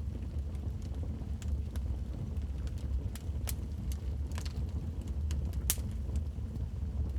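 Wood fire in a fireplace crackling: scattered sharp pops and snaps over a steady low rumble, the loudest pop a little before the end.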